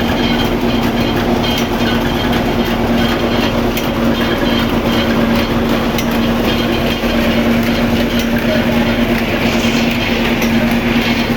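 Atta chakki (flour mill) running steadily: a constant hum with grinding noise and scattered light clicks.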